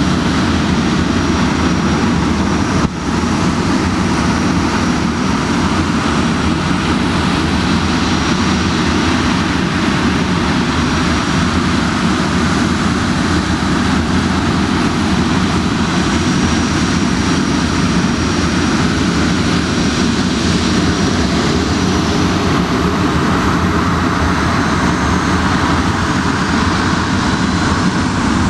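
Boeing 737-400's CFM56 jet engines running steadily: a broad, even roar with a faint high, thin whine over it.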